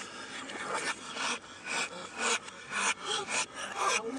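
A film shootout soundtrack played backwards: an irregular run of harsh, rasping noises a few times a second. Each swells up and then cuts off sharply, as reversed gunshots and crashes do.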